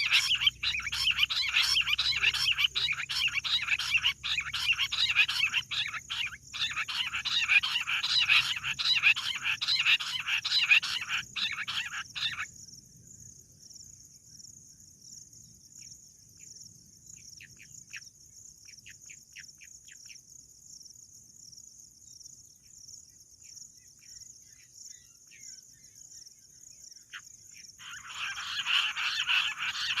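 Bush quail calling in a dense, rapid chattering chorus that cuts off abruptly about twelve seconds in. It returns near the end. In between, only a steady high-pitched buzz and a few faint chirps remain.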